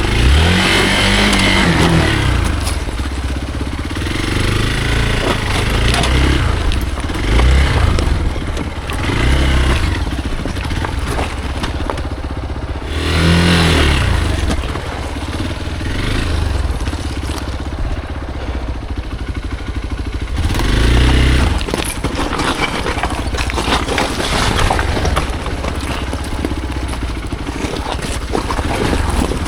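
Hero Xpulse motorcycle's single-cylinder engine revving up and dropping back again and again in short bursts of throttle while ridden off-road.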